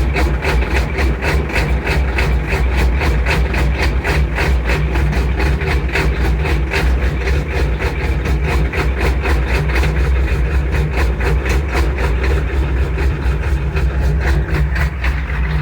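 Ford 7.3 IDI turbo-diesel V8 idling steadily shortly after a cold start, with an even diesel clatter.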